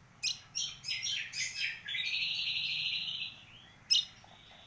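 A hand-reared kecial kombok nestling begging for food. It gives a quick series of short, high chirps, then a buzzing call held for over a second, then one sharp chirp near the end.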